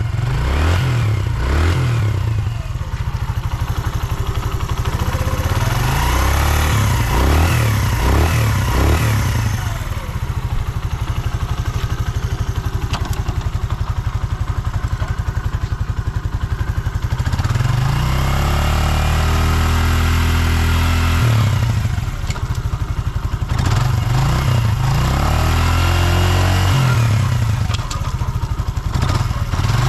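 Suzuki GN125H's single-cylinder four-stroke engine running, its speed rising and falling again and again, with a steadier stretch in the middle. The seller presents it as running with no abnormal noises.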